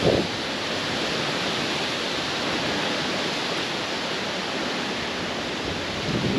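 Strong wind blowing: a steady rushing hiss.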